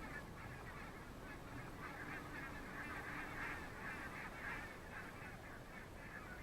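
Faint, continuous clamour of many birds calling together, a flock's overlapping calls.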